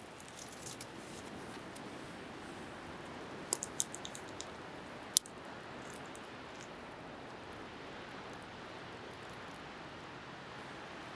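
Wood bonfire crackling, with a cluster of sharp pops about three and a half seconds in and one loud pop about five seconds in, over a steady hiss of wind and waves.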